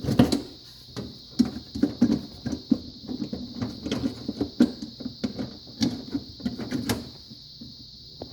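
Plastic interior panels of a refrigerator freezer being handled and clipped into place: a run of irregular clicks, taps and knocks that stops about seven seconds in.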